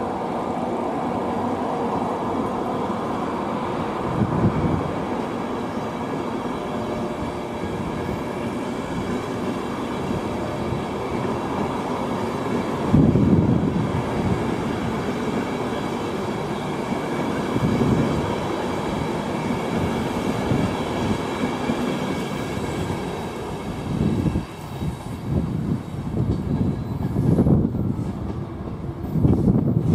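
A train running on the line, a steady rumble with faint whining tones and several heavier low thumps, which come more often near the end.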